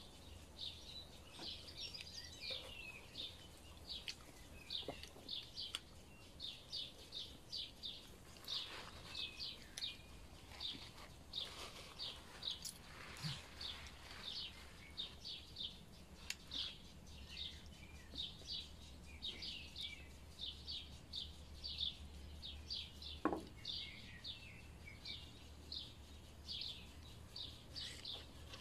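A small bird chirping over and over: short high chirps at about two or three a second, steady and unbroken, with a single click about 23 seconds in.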